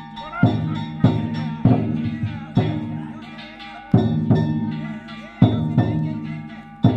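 Danjiri festival percussion: a taiko drum and metal gongs struck in an uneven beat, each hit ringing on.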